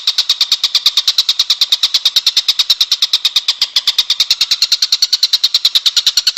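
Songbird call as used in masteran recordings: a fast, even trill of high-pitched pulses, about ten a second, repeated without a break.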